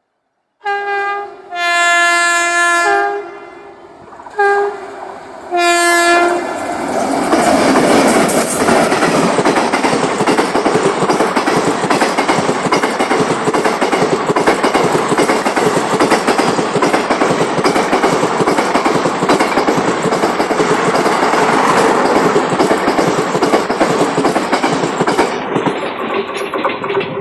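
WAP7 electric locomotive's horn, a single pitched note that sounds like a WAP4's horn, sounding four blasts: a short one, a long one, then two short ones. Then the locomotive and its ICF coaches run past with a steady clatter of wheels over the rail joints for about twenty seconds, fading near the end.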